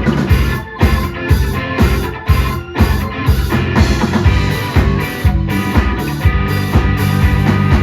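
Live rock band playing, with electric guitar, bass and a drum kit keeping a steady beat.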